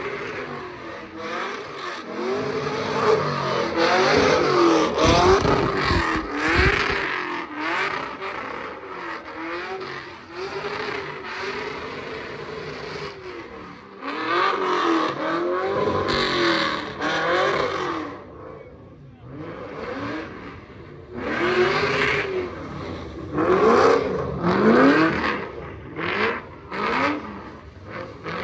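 A car engine revving up and down over and over, about once a second, typical of a car spinning donuts at a sideshow. The engine is loudest in a few spells of hard revving.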